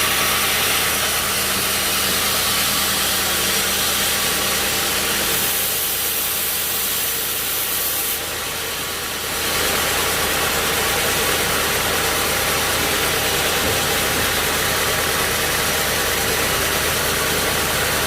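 Sawmill machinery running steadily with a continuous engine-like drone, dipping slightly in level for about a second and a half around eight seconds in.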